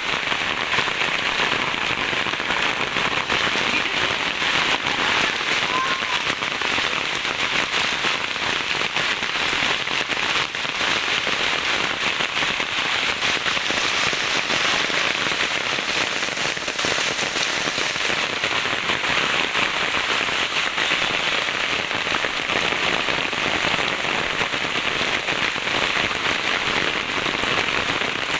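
Rain falling steadily: a dense, even hiss with a crackle of many individual drops striking a surface.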